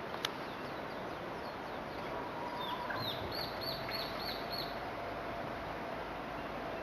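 Japanese bush warbler singing: a long, low, steady whistle followed by a quick run of about five high notes. A sharp click sounds just after the start, over a steady background hiss.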